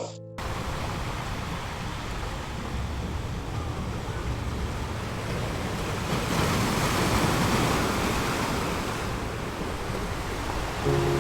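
Steady rushing noise with no pitch, swelling gently around the middle, with music coming in near the end.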